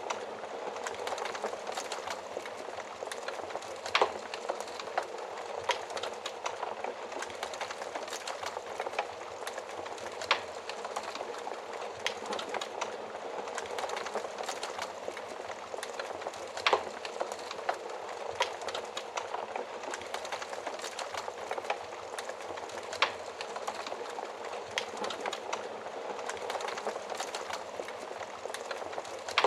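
Wood fire burning in a stove: a steady hiss of flames with dense small crackles and occasional sharper pops, the loudest about four seconds in, around ten and a half, near seventeen and around twenty-three seconds.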